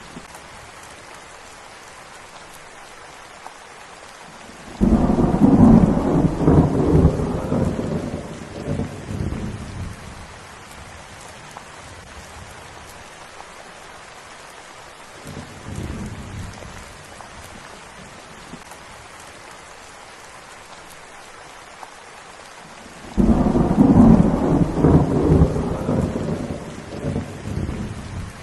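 Steady rain falling, with thunder: a loud roll of thunder starts suddenly about five seconds in and fades over several seconds, a fainter rumble comes midway, and another loud roll starts near the end.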